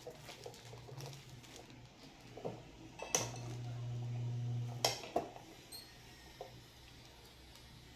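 Impulse bag sealer cycling: a sharp click as the arm closes, a steady low transformer hum for about two seconds while the heating wire is powered, then a click as it cuts off. The hum shows the repaired sealer now heating. Light handling clicks come before and after.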